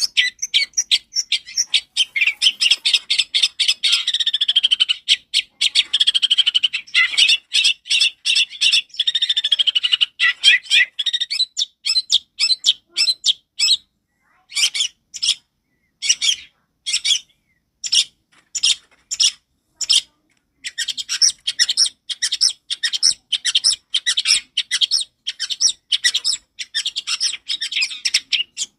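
Long-tailed shrike (cendet) singing loud and clear: fast runs of sharp, high chattering notes, with a warbling stretch in the first few seconds. Around the middle it thins to spaced single notes, then the rapid chatter resumes.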